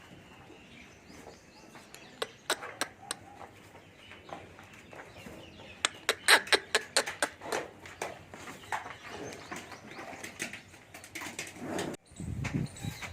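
A scatter of sharp clicks and flaps that comes thickest and loudest in the middle, then a Jafrabadi buffalo starting a low call near the end.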